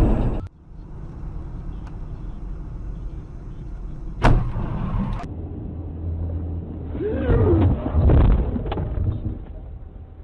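Car road noise, a steady low rumble, with a sudden loud bang about four seconds in, followed by about a second of rattling noise: a collision caught on a dashcam.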